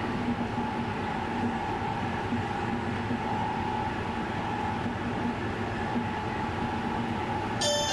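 JR West 281 series Haruka express train running at speed, heard from inside the passenger cabin as a steady rumble with a faint even hum. A bell-like chime melody starts just before the end.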